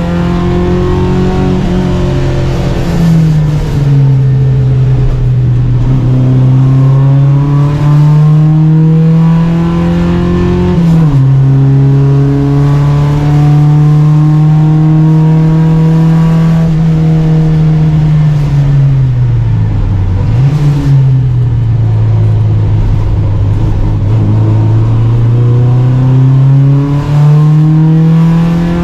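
Volvo Amazon 121 race car's four-cylinder engine, heard from on board, pulling hard at full throttle. Its note climbs through the revs and drops suddenly at the upshifts about three and eleven seconds in. About two-thirds through it falls away and wavers as the car slows for a corner, then climbs again under full throttle, with steady road and wind noise underneath.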